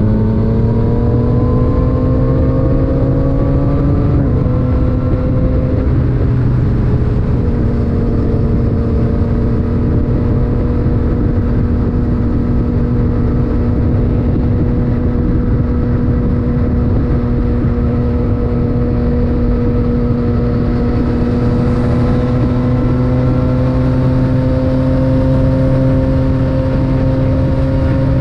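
Yamaha MT-09's inline-three engine through an Akrapovic titanium exhaust, pulling hard with pitch rising, then dropping at an upshift about four seconds in and settling into a steady cruise, rising slightly near the end. Heavy wind rush on the microphone underneath.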